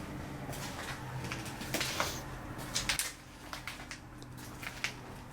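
Footsteps crunching over debris on the floor: a string of irregular clicks and crackles over a faint steady low hum.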